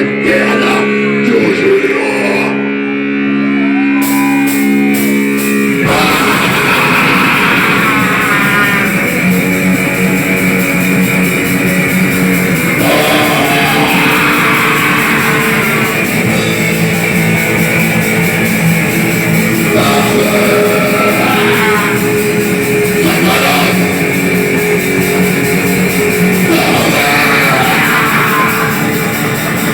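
Loud rock or metal music with guitar: held guitar chords ringing for the first few seconds, then the full band comes in about six seconds in and plays on densely.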